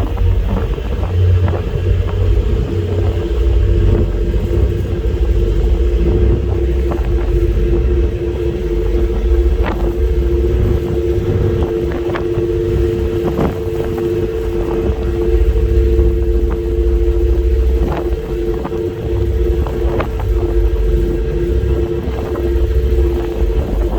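Passenger ferry's engines droning steadily in two held tones under heavy wind rumble on the microphone, with scattered short knocks.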